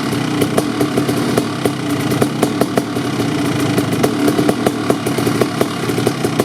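Kawasaki KX500's 500cc single-cylinder two-stroke engine idling as it warms up after a cold start, through an FMF Gnarly expansion chamber and Pro Circuit silencer. The idle is uneven, with sharp irregular pops from the exhaust several times a second.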